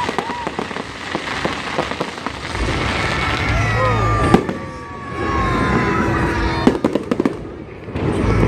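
Aerial fireworks going off: whistling shells with falling pitch, sharp bangs, the loudest about four seconds in, and clusters of crackling near the end, over a low rumble.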